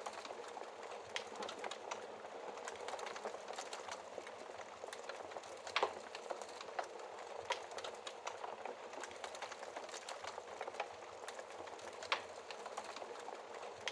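Wood fire crackling: a steady hiss scattered with many small sharp pops, and two louder pops, one about six seconds in and one near the end.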